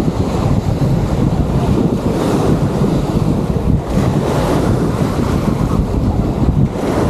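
Wind buffeting the microphone in a steady low rumble, over small waves washing onto a sandy beach.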